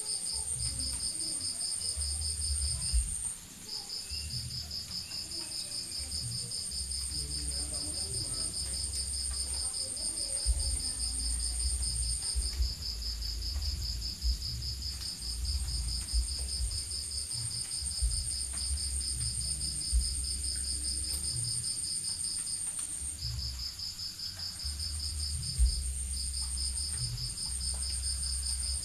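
Night insects, crickets, calling together. One trills in fast, even pulses, broken by a few short pauses. Another holds a steadier, higher-pitched trill with gaps. Under them runs a low rumble with a few brief knocks.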